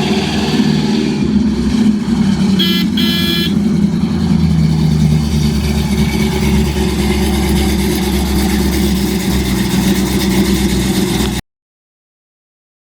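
1968 Plymouth Road Runner's V8 engine running steadily, with a brief high-pitched two-part tone about two and a half seconds in; the sound cuts off abruptly near the end.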